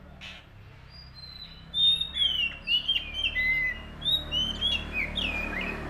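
Bird chirping: after a quiet start, a rapid, loud run of high, sweeping chirps begins about two seconds in and carries on almost to the end, over a steady low hum.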